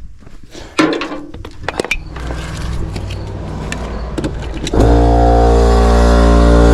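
A few clicks and knocks, then a CFMoto side-by-side's engine starts a little under five seconds in and runs at a steady idle.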